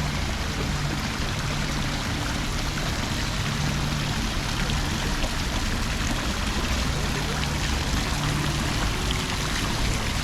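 Steady rush of flowing water, even and unbroken, with low held notes coming and going underneath.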